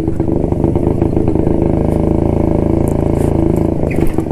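1972 Jawa motorcycle's two-stroke engine running steadily under way, its firing pulses dense and even at a roughly constant speed.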